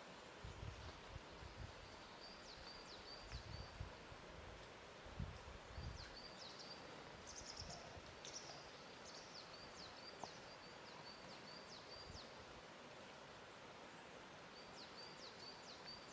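Faint lakeshore ambience: soft low lapping of water a few times in the first six seconds over a steady hiss, with a small bird repeating short, high chirping phrases on and off.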